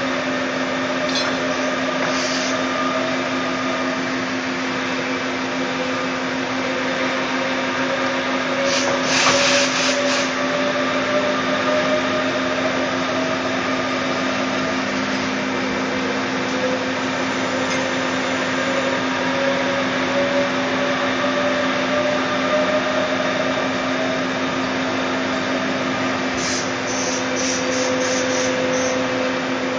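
Puma 350 CNC lathe running: a steady machine hum with a whine that slowly rises in pitch and drops back several times. A short burst of hiss comes about nine seconds in.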